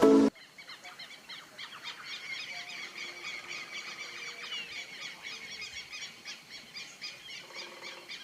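Many birds calling at once: a dense chorus of short, overlapping chattering notes that keeps going without a break after music cuts off abruptly at the start.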